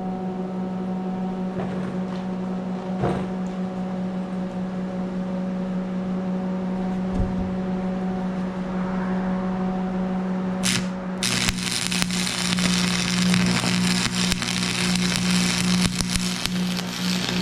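A welder's steady electrical hum, then about two-thirds of the way in a welding arc strikes and crackles continuously as a bead is laid on the steel hook and bucket.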